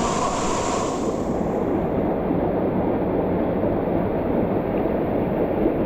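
Waterfall pouring hard: a loud, steady rush of water. About a second in the high end falls away and it sounds muffled.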